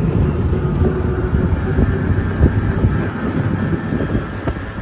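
Steady low rumble of a running motor vehicle, with a few faint steady tones above it.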